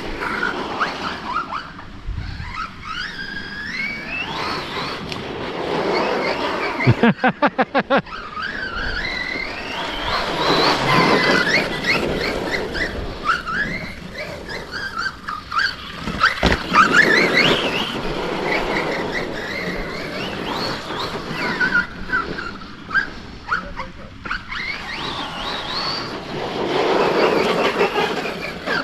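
Brushless electric motors of RC monster trucks whining up and down in pitch as the trucks accelerate, brake and turn on a dirt track, with a quick run of rattling clicks about seven seconds in.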